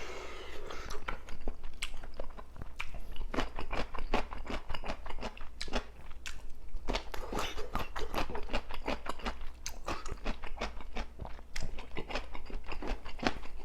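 Close-miked chewing and crunching of food, a steady run of quick, irregular crunches and mouth sounds.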